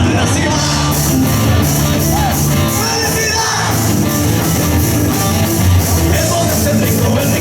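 Live rock band playing at full volume: a drum kit with regularly struck cymbals, electric guitar and bass guitar, with a singer's voice at moments.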